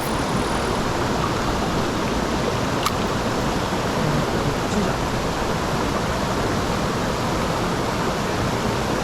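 Mountain stream water rushing steadily over rocks, with a single faint click about three seconds in.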